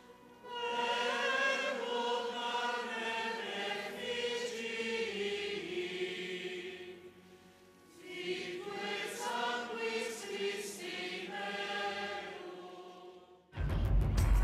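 Church choir singing during Mass in two long phrases with a short break between them. About a second before the end it is cut off by louder music.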